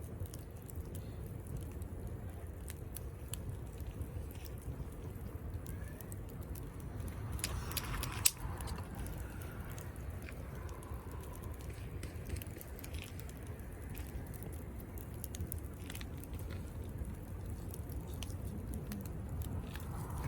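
Campfire crackling, with scattered small pops over a low steady rumble and one sharp, louder pop about eight seconds in.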